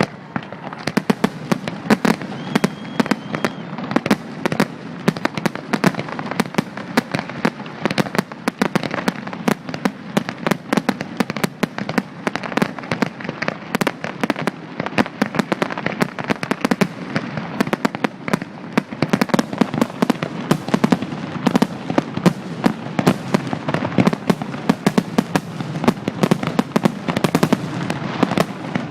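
Fireworks going off in a dense, continuous barrage: many sharp bangs and cracks a second, unbroken throughout. A faint short whistle is heard about three seconds in.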